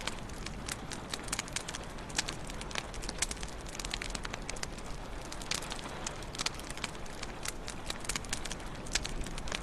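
Wood fire burning in a fireplace: steady low rush of the flames with frequent irregular sharp crackles and pops.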